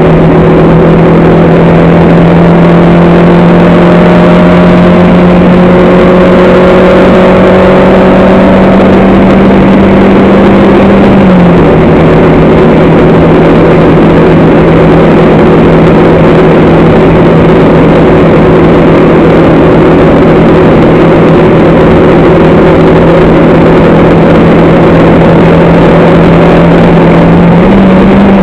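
Racing vehicle's engine heard on board, running loud and steady at high revs. Its pitch steps down once about eleven seconds in and steps back up near the end.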